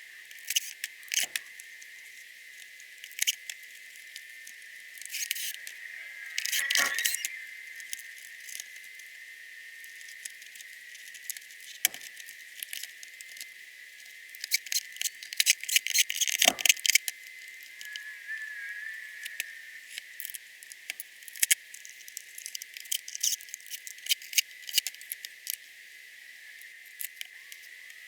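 Irregular clicks, taps and small metallic rattles of tools and parts being handled while a shop vac is taken apart, with bursts of rattling near the start, the middle and again later, over a faint steady high whine.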